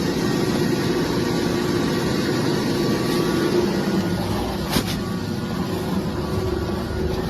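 Water-well drilling rig's engine running steadily, with a single knock about five seconds in.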